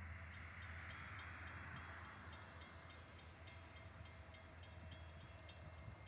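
Faint, steady low rumble of a distant freight train's diesel locomotives approaching, with a car passing on the road, loudest about a second and a half in.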